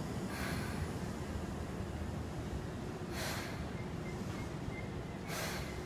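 Seibu 2000 series electric train standing at a platform, its equipment giving a steady low hum, with three short air hisses about two and a half seconds apart.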